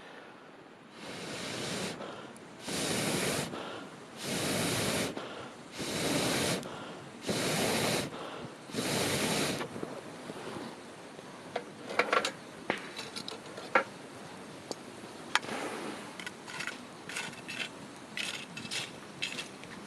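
Six evenly spaced rasping, rushing strokes of about a second each, then a wood campfire crackling with scattered sharp pops.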